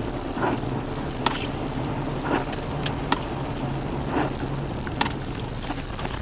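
Car engine running steadily, heard inside the cabin, with a turn-signal relay ticking over it in an alternating tick-tock about once a second.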